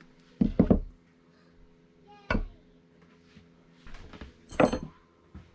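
A few separate knocks and clinks of household objects being handled, the loudest about four and a half seconds in with a brief ringing, over a steady low hum.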